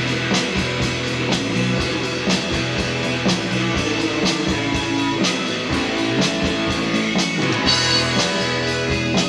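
Live rock band of two electric guitars, bass and drums playing an instrumental passage between sung verses. The drums keep a steady beat of about two hits a second, with a brighter crash near the end.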